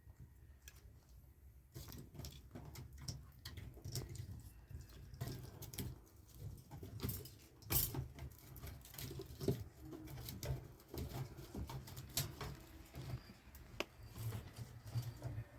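Irregular light taps, clicks and rustles, as of hands handling small objects, over a steady low rumble.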